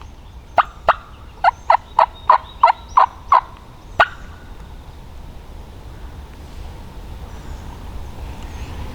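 Turkey yelping: a run of about ten short, sharp notes, each dropping in pitch, in quick succession, with the last one set slightly apart about four seconds in.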